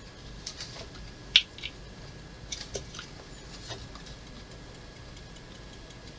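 Scattered small clicks and taps from handling a plastic model kit and its plug-in lead, with one sharper click about a second and a half in.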